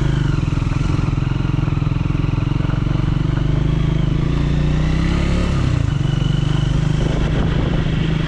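Triumph Speed 400's single-cylinder engine running steadily under load up a steep gravel hairpin climb, its pitch dipping and then picking up again about five to six seconds in.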